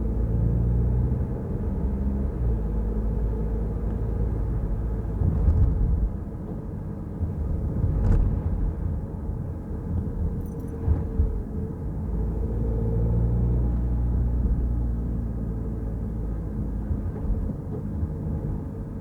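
Peugeot Rifter driving, heard as steady low road and engine rumble, with a few sharp knocks from bumps about five, eight and eleven seconds in.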